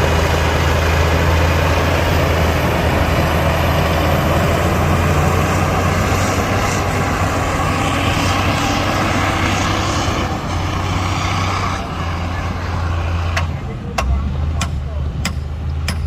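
Heavy diesel earthmoving machinery running loudly with a deep, steady engine hum. Near the end the noise eases and sharp clicks come about two a second.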